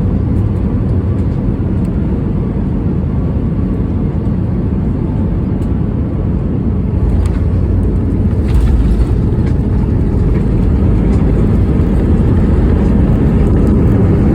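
Airbus A320 jet landing, a steady low rumble that grows louder from about seven seconds in.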